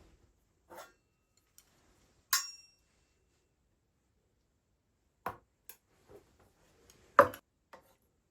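Several light clinks and knocks of small hard objects being handled. One, about two seconds in, rings briefly with a metallic ping, and the sharpest knock comes near the end.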